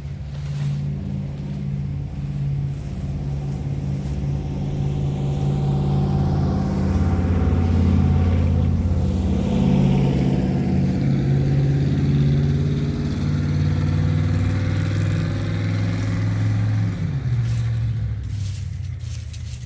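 Heavy motor vehicle's engine passing by: a steady drone that grows louder, peaks in the middle, then fades, dropping in pitch near the end.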